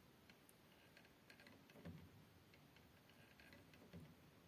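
Grand piano action with a Herz-type wippen worked by pressing a key a few times: faint clicks and soft knocks of the action with a faint squeak from the wippen's upper (repetition) lever, a squeak typically caused by the repetition spring rubbing on that lever.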